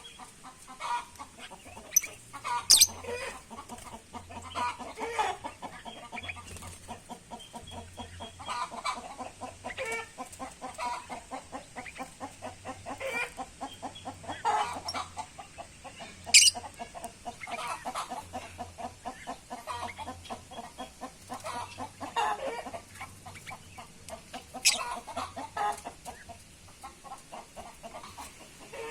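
Aviary birds calling over and over, many short calls sliding downward in pitch, with a few sharp clicks, the loudest about sixteen seconds in.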